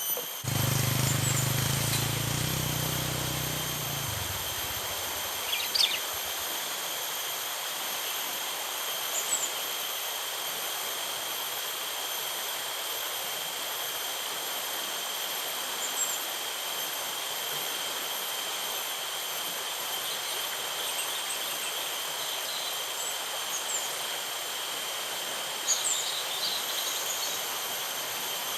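Steady outdoor riverside ambience: an even hiss with a continuous high insect drone, a low hum fading out in the first few seconds, and a few short bird chirps, the clearest about six seconds in and near the end.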